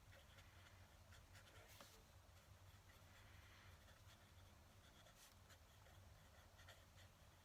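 Faint scratching of a fountain pen nib on paper in short, uneven strokes, over a steady low hum.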